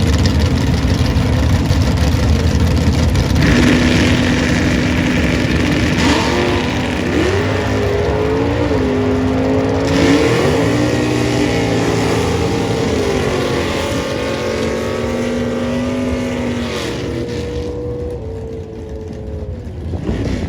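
Muscle car engines running loud, revving up and down several times from a few seconds in, then dropping back and easing off near the end.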